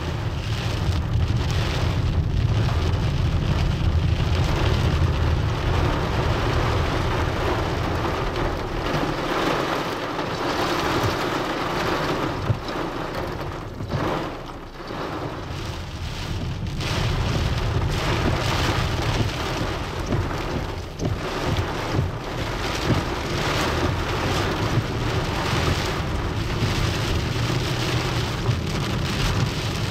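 Heavy rain falling on a car's windshield and roof in a thunderstorm, with a deep rumble underneath that eases for a few seconds near the middle.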